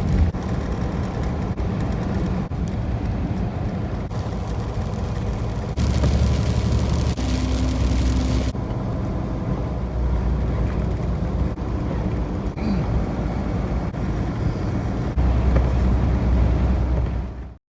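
Vehicle running steadily with engine and road noise, its low drone swelling a few times, with a stretch of hiss midway.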